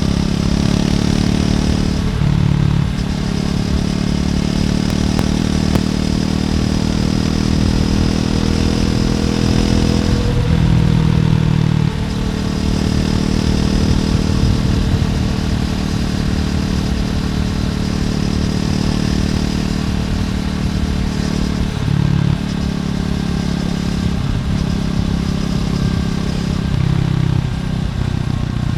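Triumph Scrambler 400X's single-cylinder engine through its stock exhaust, running under way with a slow rise in pitch as it pulls. The note dips briefly several times.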